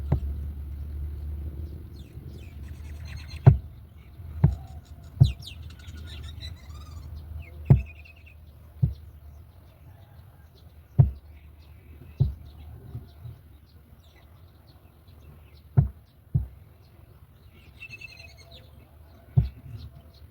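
Bird calls: high chirps in two short spells, with about a dozen short low thumps at irregular intervals and a low hum that fades out early.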